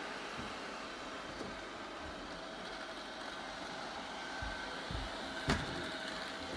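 ILIFE robot vacuum cleaner running steadily, its suction fan and brushes making an even whirring hum. There is a sharp knock about five and a half seconds in.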